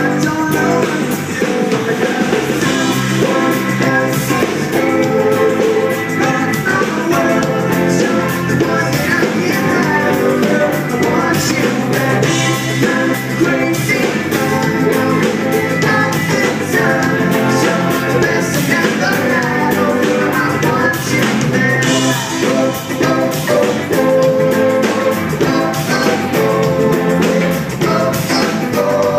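Pop-rock band playing live: sung lead vocals over electric guitar and a drum kit keeping a steady beat.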